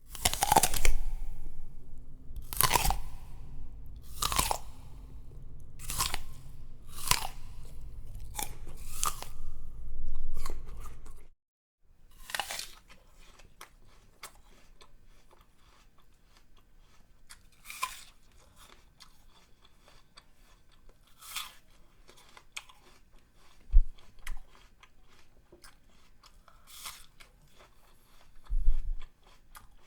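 Crunchy food being bitten and chewed: a loud crunch about every second and a half over a low rumble, cutting off suddenly about eleven seconds in. A quieter recording follows, with sparser crunches every few seconds and a couple of dull thumps.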